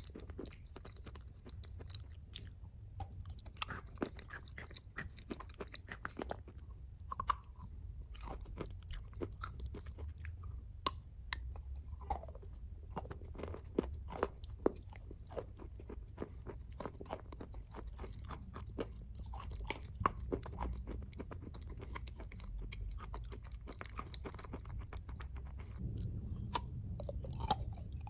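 Close-up chewing and crunching of chalk coated in wet clay paste, with many irregular sharp crunches throughout.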